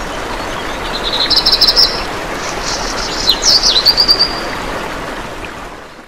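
Birds chirping and trilling over a steady hiss of outdoor ambience. The sound fades in at the start and fades out near the end, with a quick high trill about a second in and a run of chirps and whistles in the middle.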